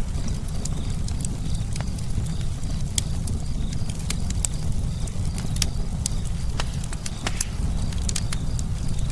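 Campfire burning: a steady low rumble of flames with scattered sharp crackles and pops from the burning wood at irregular times.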